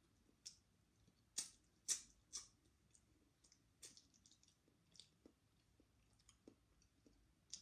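Faint close-up mouth sounds of eating by hand: scattered wet smacks and clicks of chewing, the loudest few about one and a half to two and a half seconds in.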